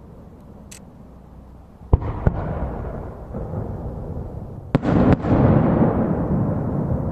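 Aerial firework shells bursting: two sharp bangs about two seconds in and two more about five seconds in, each followed by a long rolling rumble of echo.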